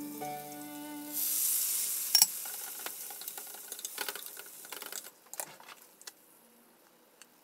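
Shrimp going into hot oil in a small rectangular frying pan, sizzling loudly from about a second in. There is one sharp clack of tongs against the pan shortly after, then lighter tong clicks. The sizzle stops about five seconds in.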